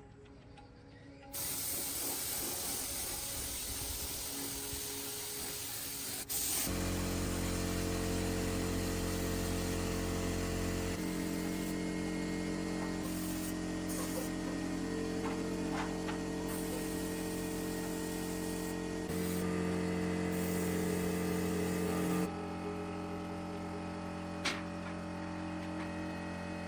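A steady spraying hiss of air. About six seconds in, a motor starts with a steady low hum, running under the hiss and changing pitch a few times.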